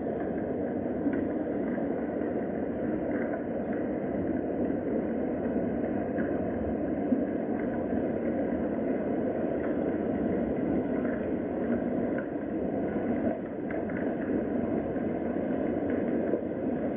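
Steady rain, an even rushing noise with faint scattered ticks of drops.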